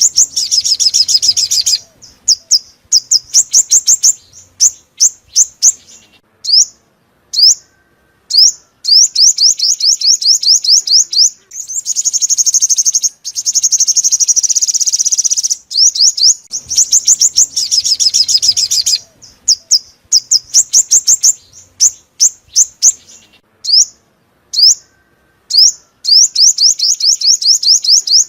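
Sunbird song: rapid series of high, sharp chipping notes run together into fast trills, with two longer, denser trilled phrases in the middle and short pauses between phrases.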